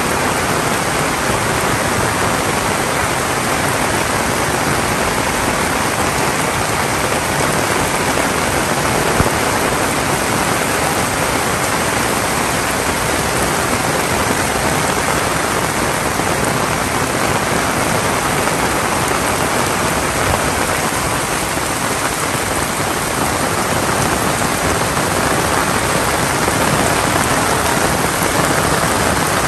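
Heavy rain falling steadily: a dense, even hiss of rain on the ground and the surfaces around.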